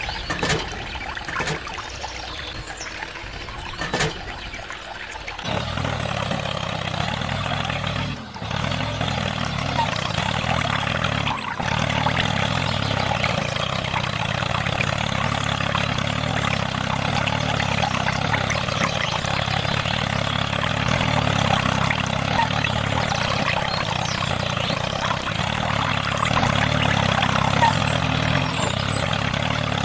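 Small motor starting up about five seconds in after a few clicks and knocks, then running steadily with two brief drops in level.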